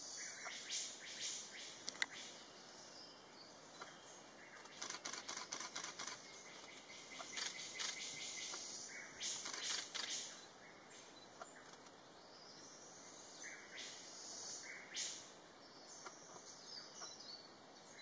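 Black sicklebill calling in bursts of sharp, rapid clicking rattles a few seconds apart, with some higher chirping notes between them.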